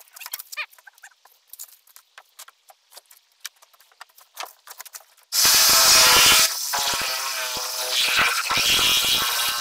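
A few light clicks and taps, then about five seconds in a motor-driven shop tool starts suddenly. It is loudest for about a second, then keeps running with a steady hiss and hum.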